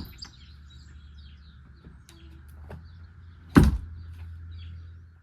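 Birds chirping over a steady low rumble, with one loud thump about three and a half seconds in.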